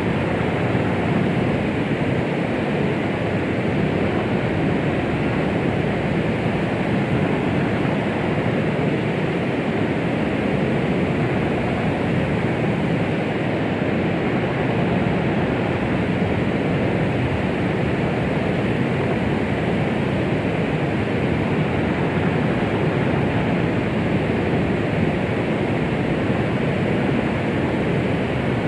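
Steady white noise: a constant, even hiss, fuller in the low and middle range and muffled at the top, with no changes. It is the kind played as a 'womb sound' to calm a baby.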